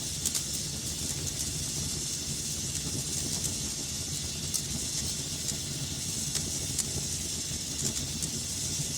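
Fire burning in a fireplace: a steady hiss and low rumble with scattered crackles and pops.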